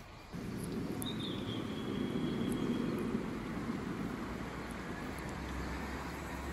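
Steady low outdoor rumble with one thin, high, slightly falling bird call about a second in, lasting about a second and a half.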